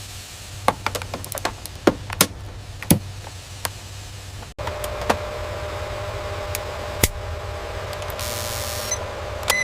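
Scattered sharp mechanical clicks and taps of tools on metal over a low hum. About halfway through the sound cuts abruptly to a steadier machine hum with a held whine and a few more clicks, and a brief hiss comes near the end.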